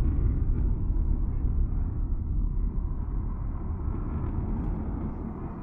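Low rumble of a distant military jet, fading steadily as it moves away.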